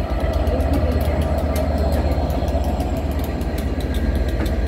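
Class 67 diesel locomotive passing close by at speed, its two-stroke V12 engine giving a deep steady hum, followed by its Mark 4 coaches rolling past with rapid wheel clicks on the rails.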